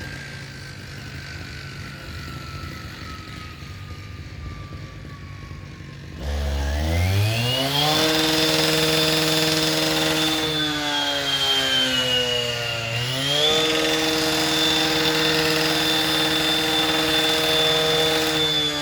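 Engine-driven saw running low with its pitch slowly falling, then throttled up sharply about six seconds in to a high steady whine. The pitch sags for a couple of seconds in the middle, then climbs back and holds at full speed.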